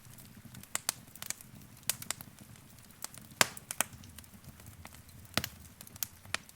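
Wood fire crackling: irregular sharp pops and snaps from the burning logs, the loudest about halfway through, over a low steady rumble of the flames.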